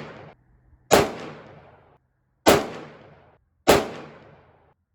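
A 2-inch-barrel Smith & Wesson .357 Magnum revolver fired three times, about a second and a half apart, each sharp report followed by a ringing echo that fades over about a second.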